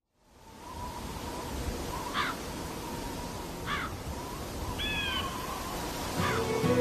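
Short bird-like calls, about four of them a second or so apart, over a low outdoor rumble that fades in at the start. Music with plucked guitar comes in near the end.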